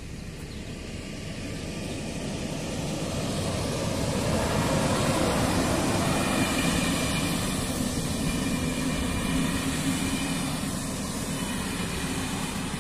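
A passenger train passing over a railway crossing, its running noise swelling to a peak in the middle and fading toward the end, with a steady low tone under the rumble.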